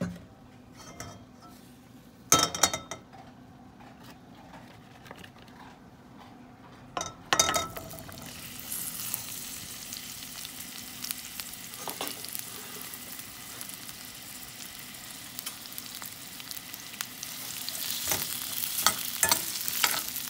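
Chopped habanero chiles and onion chunks frying in hot oil in a steel pan: after a loud knock about two seconds in, a second clatter about seven seconds in marks the food going in, and a steady sizzle starts and grows louder. Near the end a slotted spatula stirs and scrapes the pan with sharp clicks.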